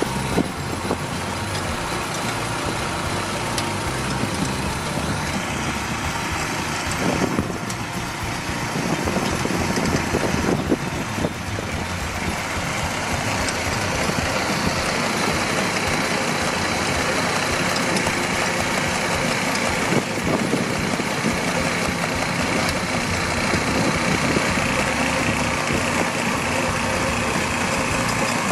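A farm machine's engine running steadily under load, with a few short louder clatters partway through.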